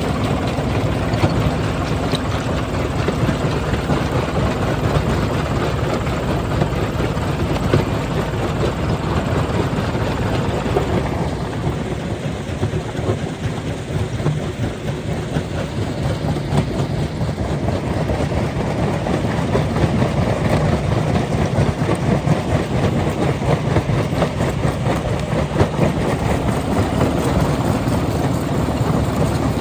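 Rock crusher running, with a heavy, steady machine drone and continuous rattling and knocking of stone. The higher rattle eases off for several seconds in the middle, then comes back.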